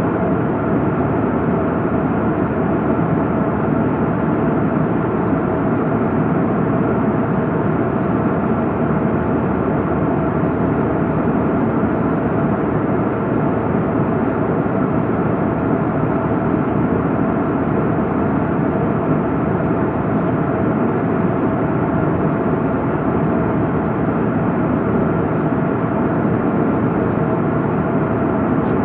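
Steady rushing cabin noise of a jet airliner in cruise, an even roar with a faint steady hum in it and no change in level.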